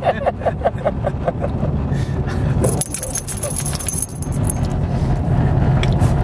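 Steady engine and tyre noise heard inside a moving car's cabin, with a quick run of light ticks in the first second and a half and a thin, high ringing around the middle.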